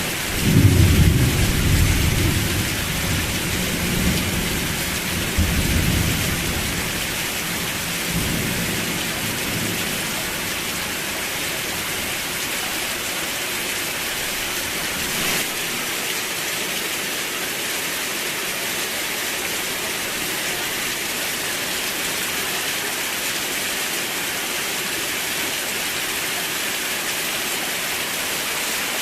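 Steady heavy rain hissing, with a roll of thunder rumbling in just after the start and fading out over several seconds.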